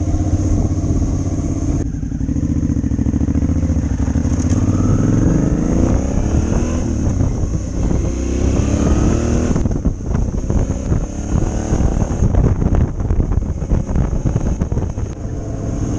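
Motorcycle engine under way, its pitch climbing in long rises as it accelerates. The sound dips where the throttle closes, about two seconds in and again near ten seconds.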